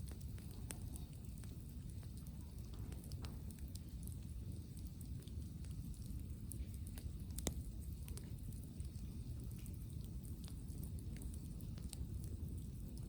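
Wood campfire crackling: scattered sharp pops and snaps, one louder pop about halfway through, over a steady low rumble of wind.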